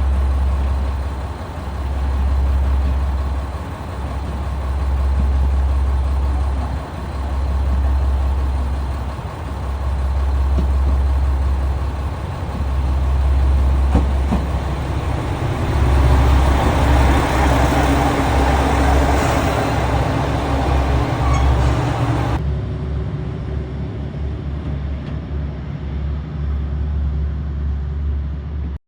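JR Shikoku 2000 series diesel limited express train with its diesel engines rumbling as it pulls into a station; the noise swells as it draws close, about two-thirds of the way through. Near the end the sound cuts abruptly to a quieter, steady engine rumble as the train departs.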